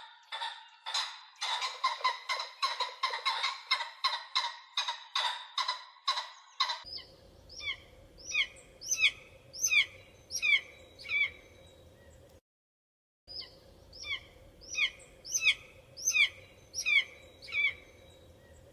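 Bird calls: a rapid run of pulsed, gobbling-like calls, about four or five a second, then an abrupt change to repeated short, high, falling chirps in quick clusters, broken once by a brief silence.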